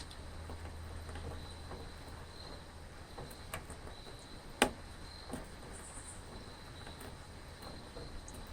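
Crickets chirping in a steady high pulsing trill, over a low hum, with scattered faint ticks and one sharp click about halfway through.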